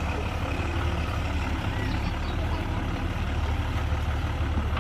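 Heavy diesel engine of a bulldozer or dump truck running steadily with a constant low rumble.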